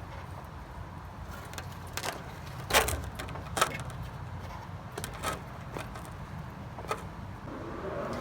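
A handful of scattered light knocks and clicks, as of hands handling parts and tools, over a low steady hum.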